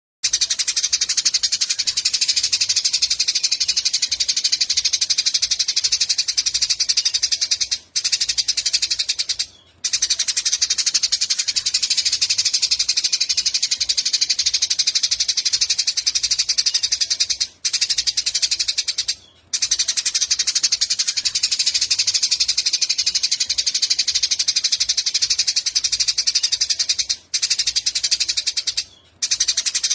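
Eurasian tree sparrows chirping in a dense, unbroken chatter, with a short break about every ten seconds.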